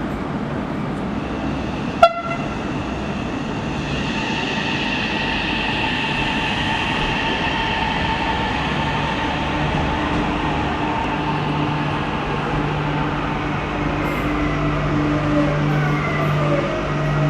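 Passenger train running: a steady rumble with several held whining tones, a single sharp click about two seconds in, and whine tones falling in pitch near the end.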